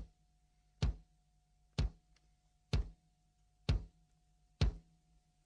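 Slow, evenly spaced low thumps, about one a second, six in all, over a faint steady hum.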